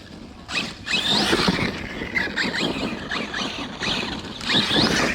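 Arrma Kraton 6S RC car's brushless electric motor whining up and down in repeated short bursts of throttle, with its tyres spinning on wet ground.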